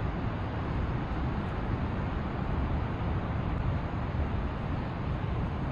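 Steady wind buffeting the microphone, a constant low rumbling rush with no breaks.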